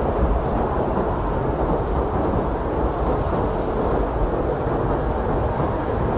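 Heavy blizzard wind blowing steadily: a dense, deep rumbling rush with no distinct gusts or breaks.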